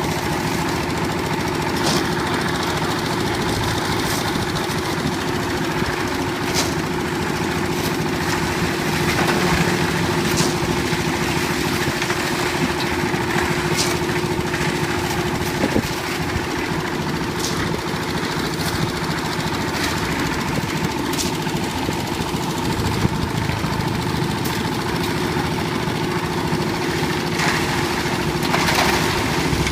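Old diesel engine driving a concrete mixer, running steadily, with sharp clacks every few seconds.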